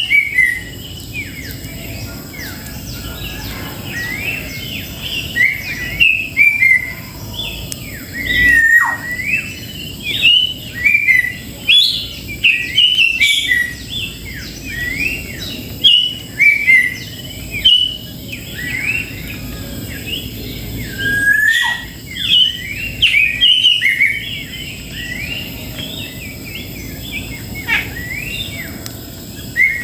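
Cucak jenggot (grey-cheeked bulbul) singing: a busy run of loud whistled chirps and short up-and-down notes, several a second, coming in clusters with brief pauses.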